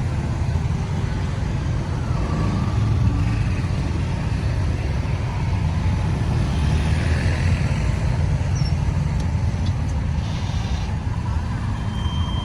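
Busy road traffic: a steady low engine and tyre rumble from passing vehicles.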